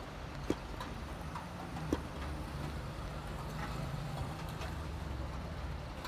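Rain falling with a steady hiss and scattered drips ticking irregularly, over a low steady rumble that swells somewhat in the second half.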